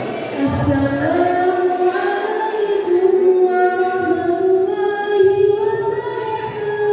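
Sholawat, an Islamic devotional song, sung with long held notes; the singing starts about half a second in.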